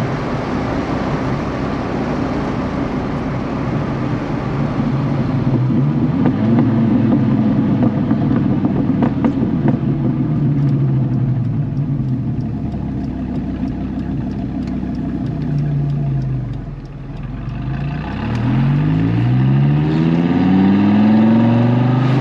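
High-performance sports car engine heard from inside the cabin while driving. It drones steadily, eases off briefly near the end, then is pushed hard, its pitch climbing as the car accelerates.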